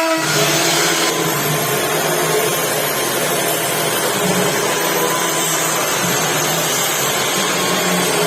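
A woodworking power tool running steadily, with a brighter hiss for about the first second.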